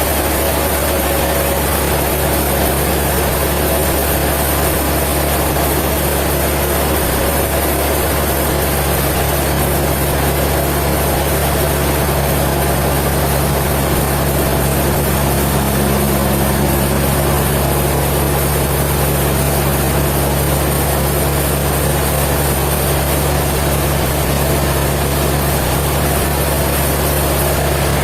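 Heavy machinery running steadily: a constant low hum with an even hiss above it, with no change in speed or load.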